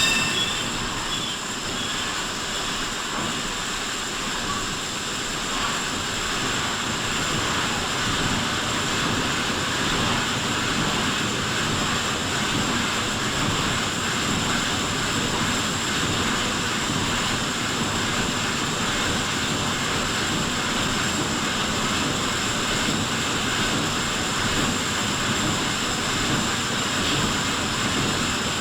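Steady rushing of sea and wind, an even wash with no distinct wave breaks or impacts.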